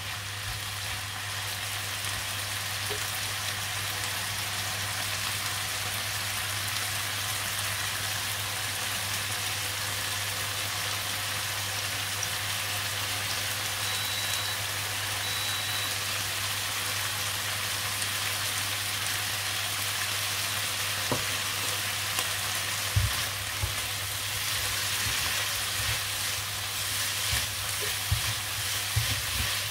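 Garlic sprouts and prawns sizzling steadily as they are stir-fried in hot oil, with a few sharp knocks against the pan in the last several seconds.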